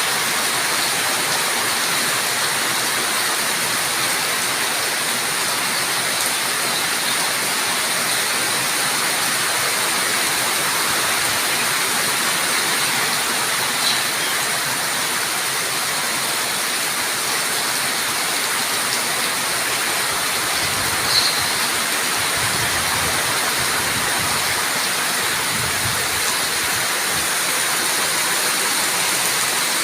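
Steady heavy rain falling as an even hiss, with a couple of faint drop ticks.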